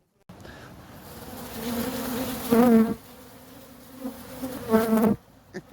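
Honeybees buzzing, the hum swelling louder. Twice a bee buzzes close by in a brief loud hum, the second near the end, before the sound stops.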